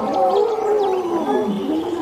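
An animal's calls: several overlapping, wavering cries that slide up and down in pitch.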